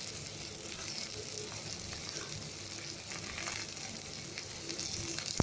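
Tomatoes sizzling as they fry in hot oil with crushed ginger-garlic paste, a steady hiss, with one sharp knock right at the end.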